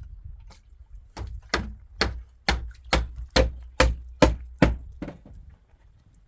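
Hammer driving nails into wooden planks: about ten steady blows, roughly two a second.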